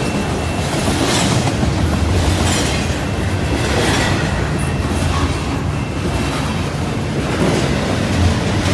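Double-stack container well cars of a freight train rolling past at speed: a steady, loud rumble of steel wheels on rail with clacks of wheel sets passing over the track, several times.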